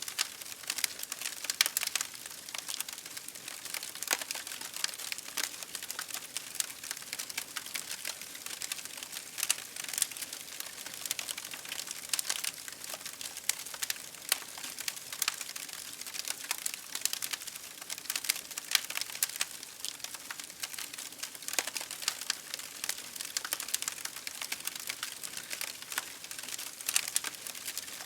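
Campfire crackling steadily, with frequent sharp pops and snaps of burning wood over a soft hiss.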